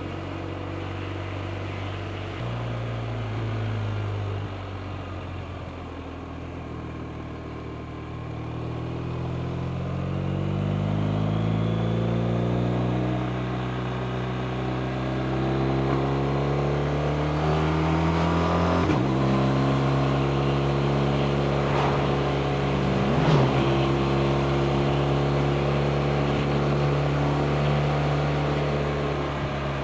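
BMW R 1250 RT's boxer twin engine under way: a sudden rise in pitch about two seconds in, then the revs fall off and climb steadily under acceleration until a sharp drop at an upshift, after which it runs at a steady pitch.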